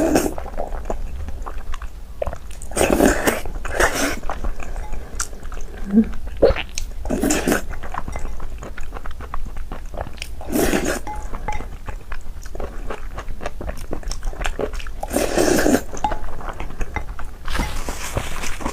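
A person chewing and biting a big mouthful of food close to the microphone, with louder bites every few seconds.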